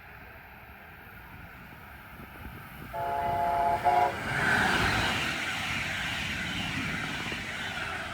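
Brightline passenger train sounding its horn, a blast of about a second broken briefly near its end, then passing at speed as the loud rush of wheels and air swells and fades.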